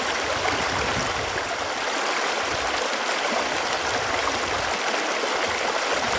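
Running water flowing steadily, an even rush with some gurgling.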